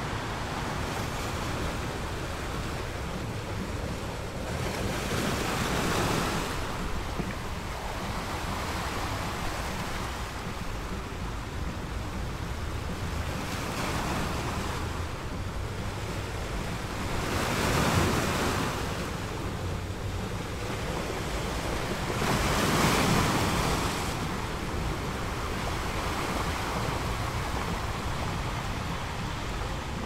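Sea waves crashing against rocks: a continuous wash of surf, with three louder breakers swelling and falling away several seconds apart.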